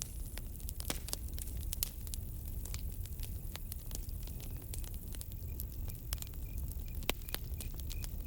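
Campfire crackling, with irregular sharp pops and snaps over a low rumble. About two-thirds of the way in a cricket starts chirping in short, even pulses, about three a second.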